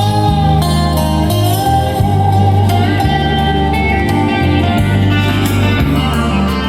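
Recorded music with a strong, steady bass line and a melody above it, played back through a 1990 Kenwood UD-9 hi-fi system.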